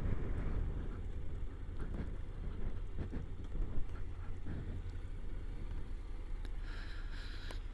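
Honda NC750X motorcycle on the move: a steady low rumble of engine and road with wind buffeting the microphone.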